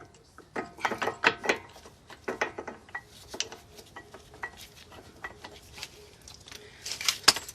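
Metal brake pads and their shims being handled and fitted into a brake caliper: irregular light metallic clinks and taps, with a quicker, louder cluster near the end.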